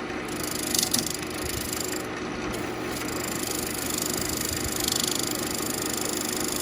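Central Machinery wood lathe running with a steady motor hum while a carbide turning tool cuts hard ambrosia maple, giving a continuous scraping hiss, with a couple of sharper scrapes about a second in.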